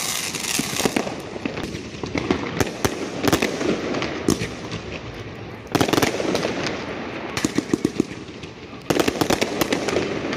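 Fireworks going off: a dense run of bangs and crackling bursts, with louder salvos starting about six and nine seconds in.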